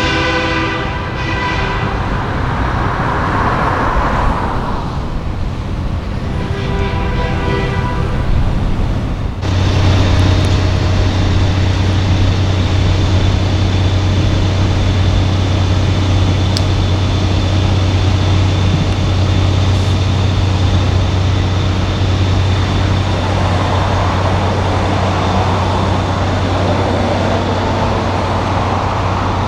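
Semi-truck air horns blowing in two long blasts, then, after an abrupt change about a third of the way in, a steady low diesel engine drone.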